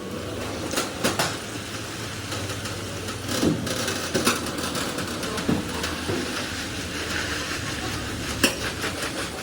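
A truck engine running steadily, with irregular metallic clanks and knocks over it; the loudest knock comes near the end.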